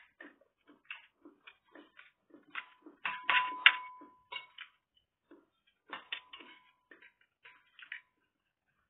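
Close-up eating sounds: chewing and mouth noises in a quick irregular run. About three to four seconds in comes a louder spell where a metal spoon scrapes and clinks against a bowl, with a brief ringing note.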